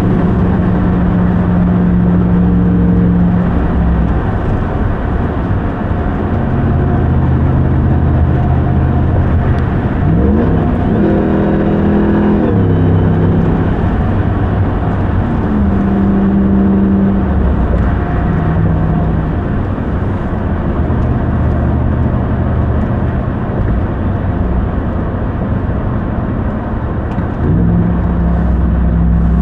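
2021 Ram 1500 TRX's supercharged 6.2-litre Hemi V8 running while driving, its engine note holding steady pitches that step up and down several times, with a rising rev about ten seconds in.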